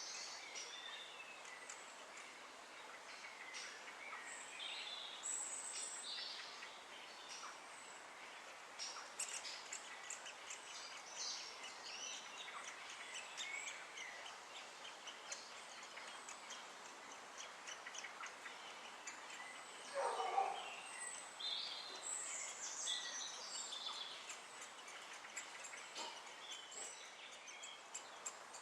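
Birds calling: many short, high chirps and calls over a steady background hiss, with one louder, lower call about twenty seconds in and a run of quick, evenly spaced ticks near the end.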